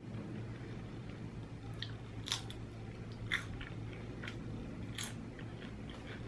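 A mouthful of loaded nachos, Doritos and Hot Cheetos under queso and toppings, being chewed: a run of crisp crunches, the loudest about two, three and a half and five seconds in.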